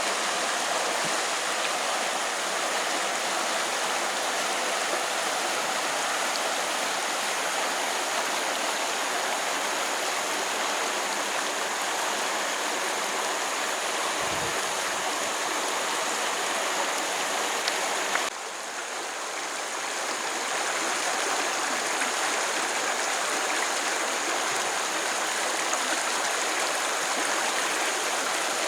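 Stream water flowing steadily, a dense, even rush. About two-thirds of the way through it drops abruptly and then builds back up over a couple of seconds.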